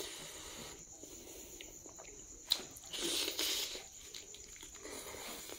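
A person eating rice and pork by hand: soft chewing and mouth sounds, with a sharp click about two and a half seconds in and a brief burst of chewing just after.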